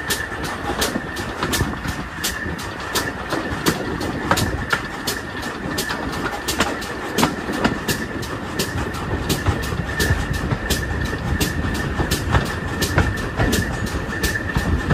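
Steam-hauled heritage train running along the line, with an even clicking about three times a second over a steady rumble and a faint high whine.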